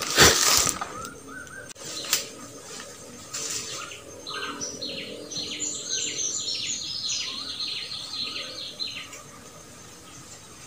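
A wild bird singing a fast run of many short, falling notes for about four seconds, starting a little before the middle. A brief loud noise comes at the very start.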